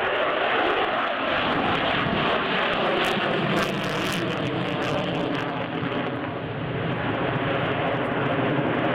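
A fixed-wing aircraft's engine running loud and steady, a sustained drone made of several steady pitches, easing slightly about six seconds in and then building again.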